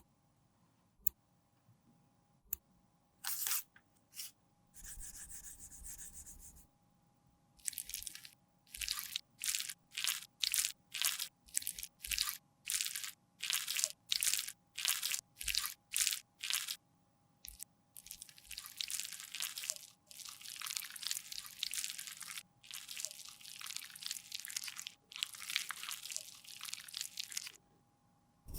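Makeup being crushed and scraped with a hand tool: a few sharp clicks, then a run of short crunchy strokes at about two a second, then longer continuous scraping near the end.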